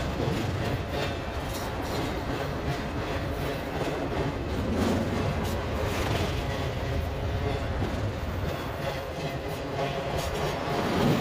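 CSX intermodal freight train rolling past, its steel wheels rumbling steadily on the rails and clacking over the track joints as the double-stack well cars go by.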